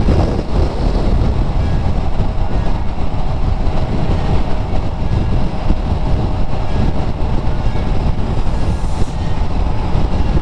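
Steady wind rush over an action camera's microphone on a moving Honda CBR400R motorcycle, with the bike's parallel-twin engine running underneath at a steady pace.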